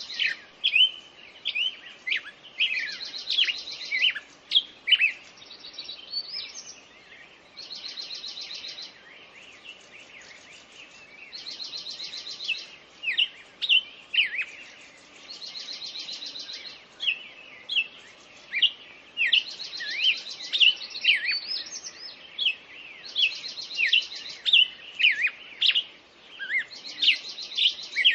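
Several songbirds singing together: a dry, fast trill about a second long repeated roughly every four seconds, with sharp, quickly sweeping whistled notes from other birds in between.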